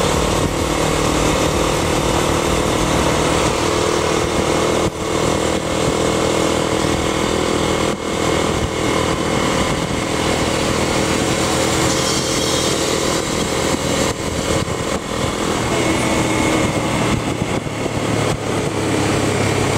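Motorcycle engine running under way while riding, mixed with loud steady wind noise on the helmet-mounted microphone.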